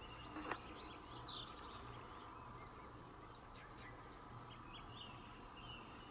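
Faint small-bird calls over marsh ambience: a quick run of high chirps and trills in the first two seconds, then scattered short calls, with a single light click about half a second in.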